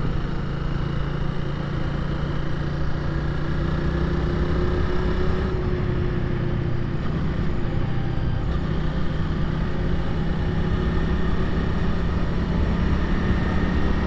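Honda Rebel 300's single-cylinder engine running under way, its pitch holding fairly steady, rising slightly a few seconds in and again near the end.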